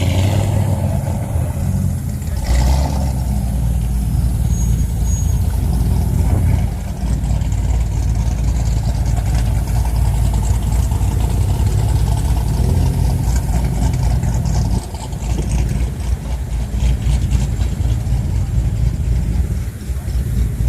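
Car engines at a car meet idling and revving, a loud, steady low rumble, with a brief surge about two and a half seconds in.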